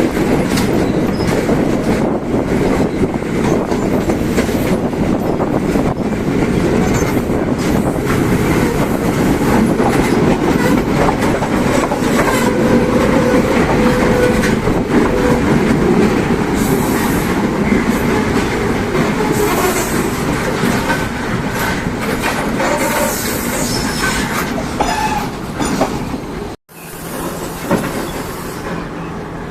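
Train running along the line, a steady loud rumble with wheels clicking and clattering over the rail joints. Near the end the sound cuts out for an instant and comes back quieter.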